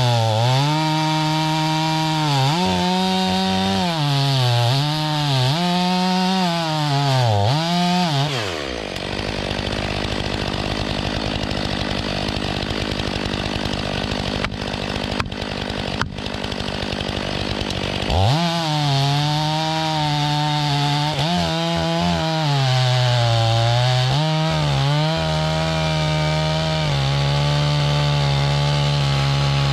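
Stihl MS500i fuel-injected two-stroke chainsaw cutting through a log at high revs, its pitch dipping as the chain bogs under load. After about eight seconds it drops to idle for about ten seconds, with a few sharp knocks. It then revs up and cuts again.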